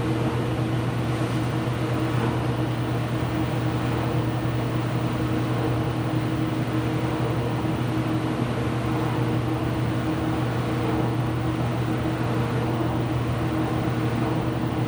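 IPSO washing machine running mid-cycle with a steady low hum.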